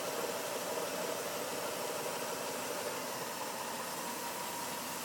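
Mitsubishi Diamante's V6 engine idling steadily as the alternator field is excited with a test light; the idle hunkers down a little as the alternator loads up and starts charging. A faint whine joins about three and a half seconds in.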